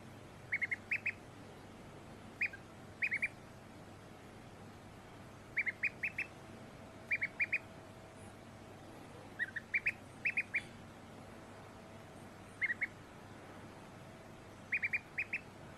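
Domestic duckling peeping: short high-pitched peeps in quick clusters of two to four, repeating every second or two.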